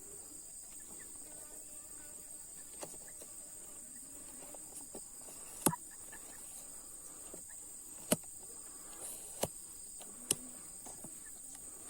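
Steady high-pitched insect chirring, crickets or similar, with a few sharp clicks or taps scattered through it, the loudest about halfway through.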